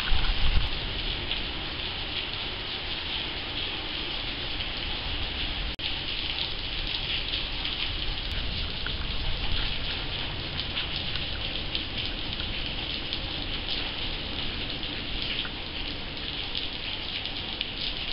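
Steady tropical rain falling during a thunderstorm, an even hiss. A low rumble dies away in the first second.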